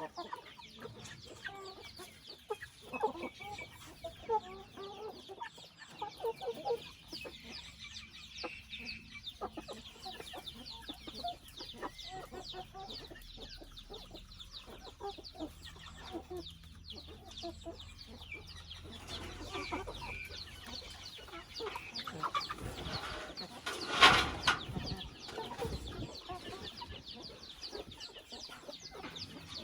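Chickens clucking in a run of short calls throughout, with one brief loud burst of noise about 24 seconds in.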